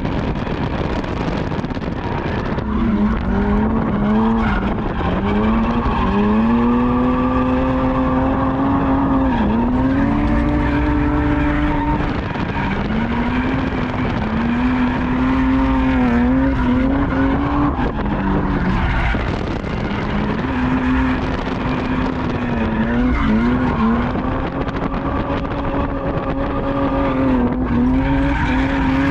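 A drift car's engine revving up and down over and over through a lap, pitch climbing and dropping with the throttle, over continuous tire skidding on the asphalt.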